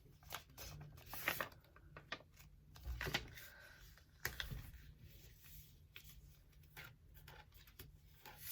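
Sheet of paper rustling and being creased by hand as it is folded in half, heard as scattered short scrapes and taps, a few of them louder.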